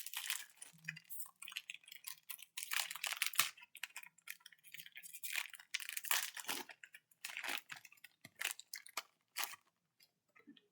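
Crinkly wrapper of a Panini Absolute football card pack being torn open and handled: a run of irregular crackles and rustles that thins out near the end.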